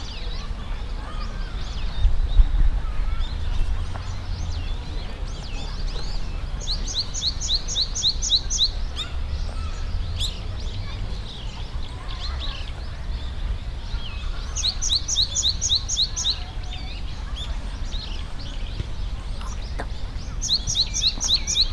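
A songbird singing bouts of quick, clear, high repeated notes, about four a second for two seconds at a time, three times, which the recordist hears as "tsui, tsui-tsui-tsui" and finds a little unlike a Japanese tit. Other birds chirp faintly throughout over a low background rumble.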